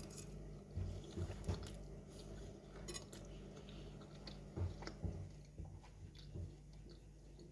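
A person chewing a mouthful of seafood fettuccine: faint, irregular chewing with small mouth clicks, over a steady low hum.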